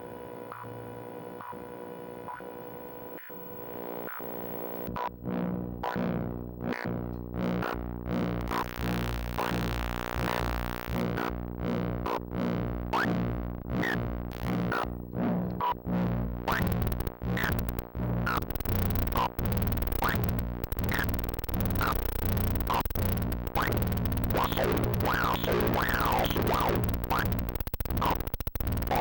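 Homemade hexagen2612 analog synthesizer playing: a steady hum of several held tones, then about four seconds in a rhythmic electronic pattern of clicks and short chirping sweeps starts over it and keeps going.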